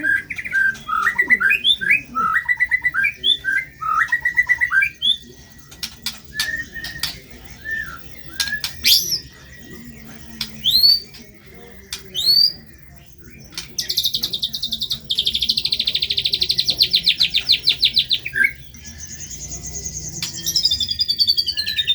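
White-rumped shama (murai batu) singing a varied song. It opens with warbled phrases and a few sharp rising whistles, then gives a long, fast rattling trill in the middle and a falling run of high notes near the end.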